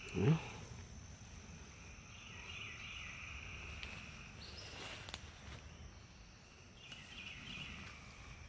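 Steady insect chorus, a high, even trill that swells twice. A brief low sound just after the start is the loudest thing.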